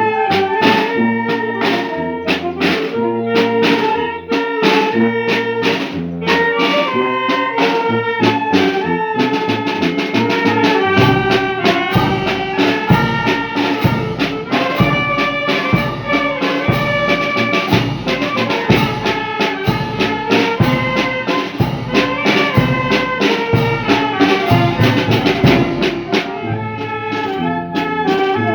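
Brass band music: trumpets and saxophones play a melody over drums, with a steady bass drum beat for much of the passage.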